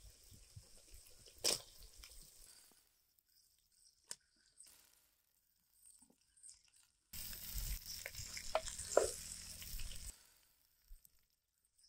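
Food sizzling in a pan, with a few sharp clinks of a utensil. About seven seconds in comes a louder three-second stretch of hiss with a low hum and more clinks, which stops abruptly.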